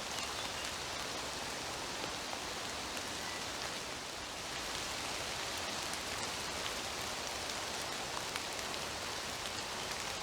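Gentle steady rain falling and dripping from the trees in a wood: an even hiss of rain with scattered drips.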